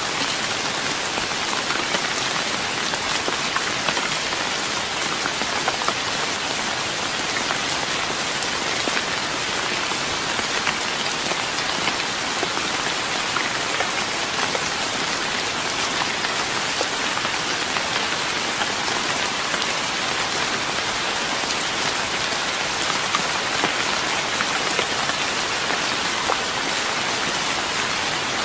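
Steady rain falling on a wooden deck, a dense even hiss with many small drop ticks and no letup.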